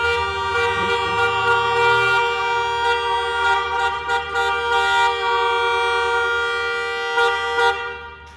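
A two-tone car horn held down in one long, steady blast that stops shortly before the end, with a few voices at the start.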